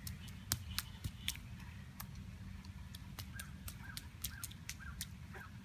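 A bird calling with short repeated calls, about two a second, starting about halfway in, over scattered sharp ticks and a steady low outdoor rumble.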